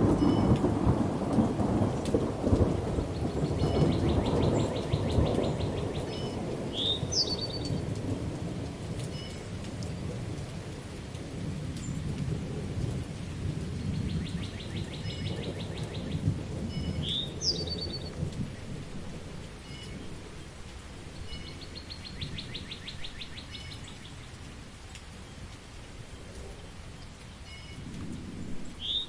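Rolling thunder over steady rain: the rumble is loudest at the start and slowly dies away, then swells again near the end. A bird calls a few times over it, short high trills and quick chirps.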